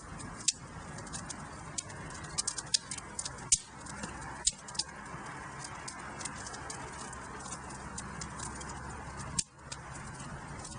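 Wood fire burning in a fireplace: frequent sharp crackles and pops over a steady soft rush of flame, with a few louder pops.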